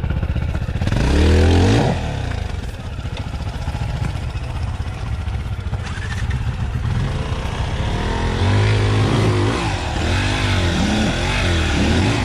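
Dirt bike engine revving under throttle, its pitch climbing steeply about a second in, then rising and dropping several times in quick succession near the end over a steady low rumble.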